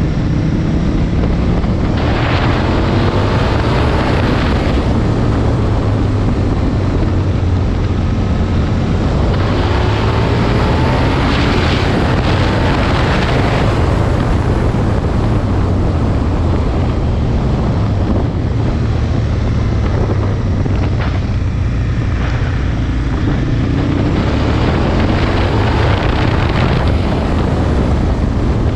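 Aprilia Tuono 1000 V-twin engine running while riding, with heavy wind noise on the microphone. The engine note climbs three times as the bike accelerates.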